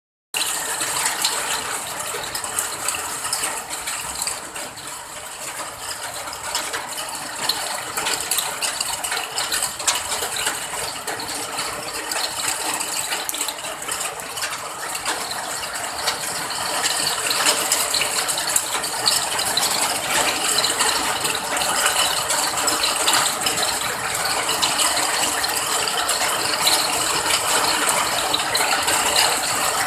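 Steady rain, a dense stream of small drop hits, growing a little heavier in the second half. There is a split-second dropout at the very start.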